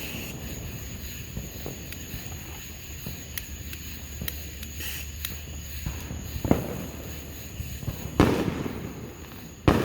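Fireworks going off: a few faint cracks, then three loud bangs in the second half, the loudest about 8 seconds in, each trailing off briefly.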